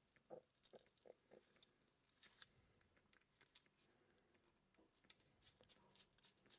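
Near silence with faint, scattered clicks and ticks of small-parts handling: a tiny screwdriver and wires being worked at a relay's screw terminals. There are four soft knocks in the first second and a half.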